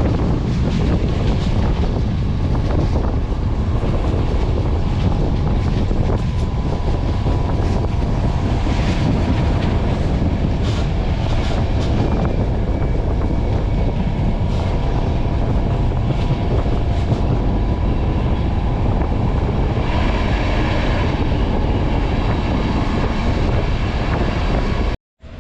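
Passenger train running at speed: a steady, loud rumble of wheels on the track with scattered sharp clicks. It cuts off suddenly near the end.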